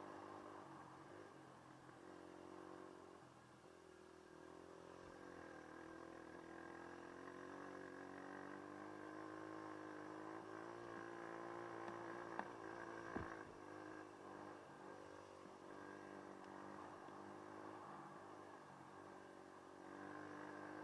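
Dirt bike engine running, faint, its pitch dipping briefly and then rising gently as the throttle changes, with two sharp knocks about twelve and thirteen seconds in.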